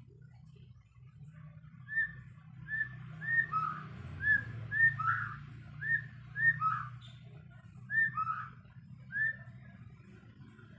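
A white-rumped shama (murai batu) whistling a run of about a dozen short notes, alternating between a higher and a lower pitch, starting about two seconds in. A low steady rumble runs underneath.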